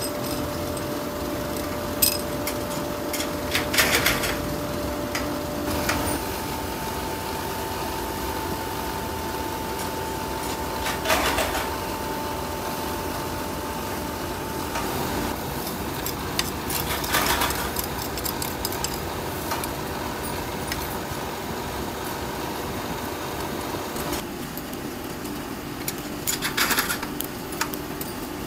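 Steady hum of forging-workshop machinery, with a handful of short metallic clanks and knocks scattered through it.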